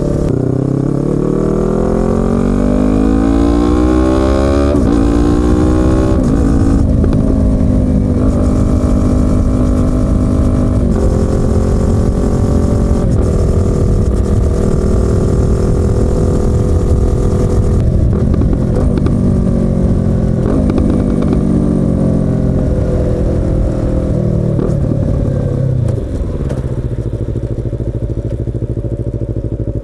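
Yamaha YZF-R25's parallel-twin engine and exhaust pulling up through the gears: the revs climb and drop back at several upshifts over the first dozen seconds, then hold steady at a cruise. The revs fall away about 24 seconds in, and the engine settles to a low, steady idle near the end.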